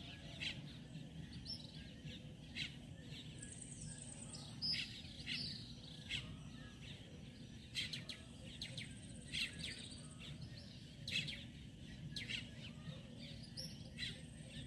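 Birds chirping in short, scattered calls over a faint, steady low background rumble.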